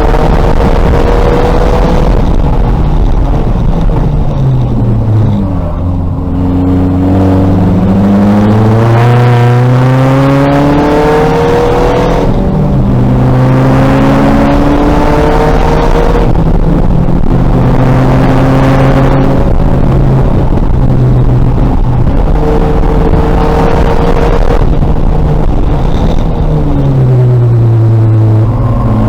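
A 2000 VW Golf race car's engine at full throttle, its note climbing steeply through the gears with a sharp drop at each upshift. Around four seconds in and again near the end the pitch falls away under braking before climbing again.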